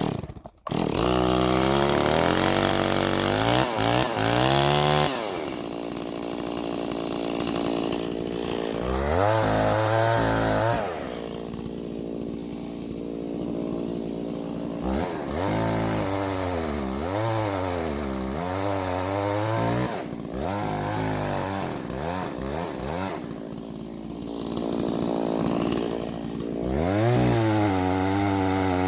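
Chainsaw revved repeatedly, its pitch climbing and falling, and dropping back toward idle between bursts.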